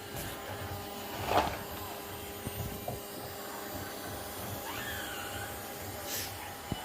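Robot vacuum cleaner running with a steady hum, and a terrier's short vocal sounds over it: one sharp sound about a second in and a high, wavering one past the middle.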